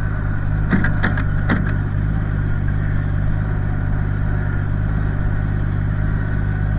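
1968 Minneapolis-Moline G900 LP tractor's propane engine running steadily, with three quick clacks about a second in.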